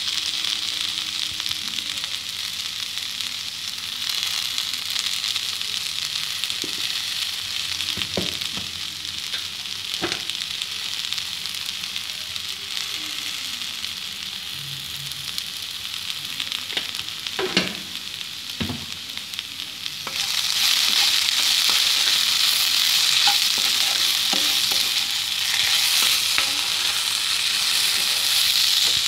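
Chopped okra sizzling in oil in a non-stick pan, a steady hiss, with a wooden spatula stirring and a few sharp knocks against the pan. About two-thirds of the way through the sizzle gets louder and stays so as the okra is stirred, frying at medium heat to crisp it.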